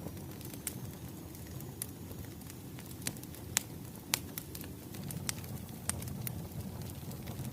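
Wood fire crackling: irregular sharp pops and snaps over a low, steady rumble of burning logs, with two louder pops near the middle.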